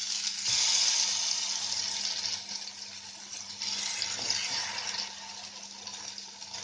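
Turmeric-and-chilli-coated brinjal slices sizzling in hot oil in a kadhai as they are laid in with a wooden spatula. The sizzle is loudest about a second in, with a few soft knocks of the spatula against the pan.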